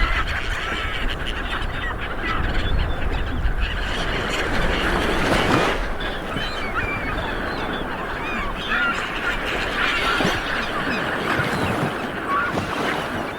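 Light surf washing onto a beach, with a wave breaking about halfway through. Many birds call over it in short chirps.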